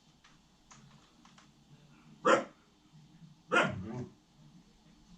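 18-week-old puppy barking twice, a short bark about two seconds in and a longer one just over a second later, with a few faint clicks before them.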